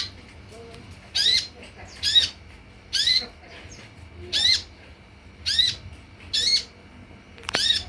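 Sunbird call: a loud, sharp chirp repeated seven times at about one per second, each note arching in pitch, as used on a lure and tutor track for kolibri. A faint steady hum lies underneath.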